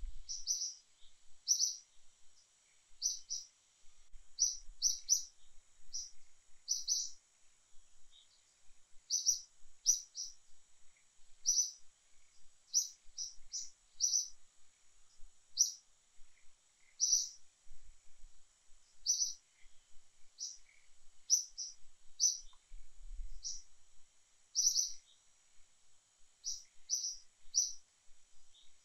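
A small bird chirping repeatedly: short high chirps, singly or in quick pairs and threes, about every second or two, over a faint steady high hiss.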